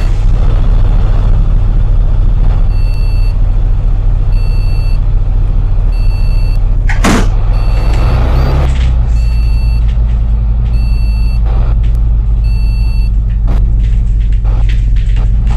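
Bus engine idling with a steady low drone while a two-tone warning beeper sounds about once a second. A sharp hiss of air comes about seven seconds in, then the engine note rises and settles higher as the bus moves off.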